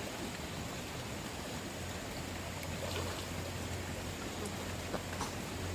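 Stream water rushing steadily, with a few faint clicks or knocks.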